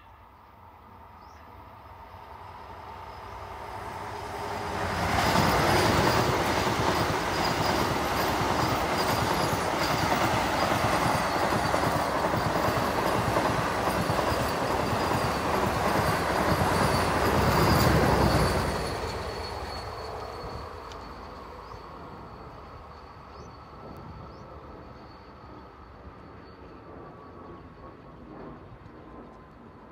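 Vande Bharat Express trainset approaching and passing at speed: a rush of steel wheels on rail that builds over about five seconds, holds loud with rapid wheel clatter for about thirteen seconds, then fades away.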